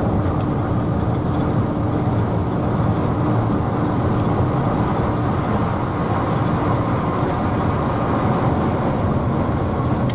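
Mercedes-Benz OH1113 bus on the move: a steady drone of engine and road noise.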